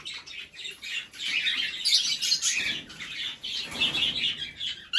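Lovebirds and finches chirping and chattering together, a dense, continuous twittering of many small birds.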